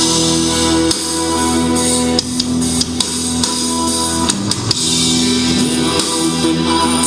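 A rock song with guitar and drums playing loud through a motorcycle's custom stereo of Polk Audio speakers and a Hogtunes tweeter bar driven by a Rockford Fosgate amplifier, picked up by a GoPro's built-in mic.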